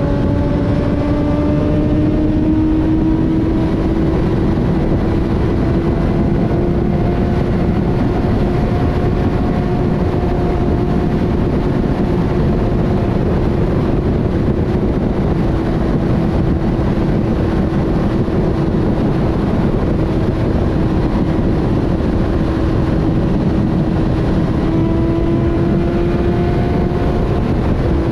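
Inline-four sport bike engine running at a steady highway cruise, its single held tone rising a little and then staying level, under heavy wind rush on the microphone.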